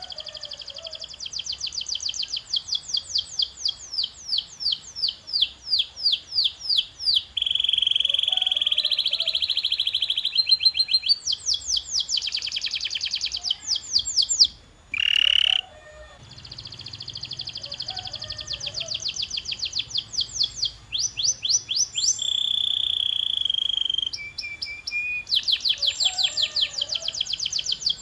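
Domestic canary singing: long runs of rapidly repeated high notes alternating with held whistled notes, with a short break a little past halfway.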